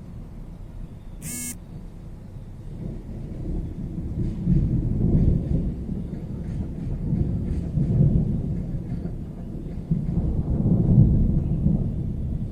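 Rolling thunder: a low rumble that builds a few seconds in and swells three times. There is a brief high-pitched chirp about a second in.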